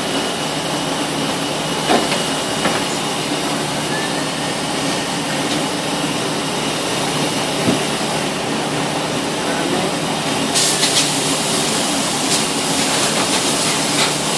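Steady machine noise, an even hiss with a steady hum under it. About ten seconds in, a brighter, higher hiss with scattered clicks joins.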